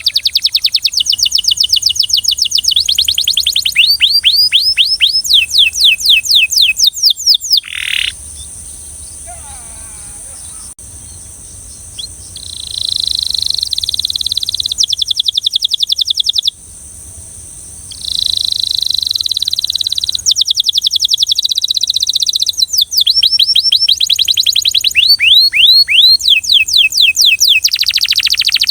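Belgian canary singing in phrases of rapid repeated sweeping notes and held rolling trills, with a pause of a few seconds about a third of the way in.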